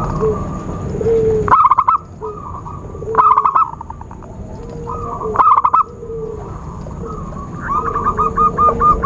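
Zebra doves cooing: three short bursts of quick rolling coos about two seconds apart, then a longer run of evenly spaced coos near the end. This is the call used to lure wild zebra doves.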